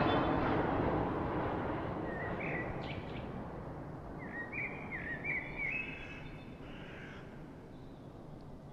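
A bird chirping in short rising calls, once about two seconds in and in a quick series between four and six seconds, over a steady hiss of background noise that fades out.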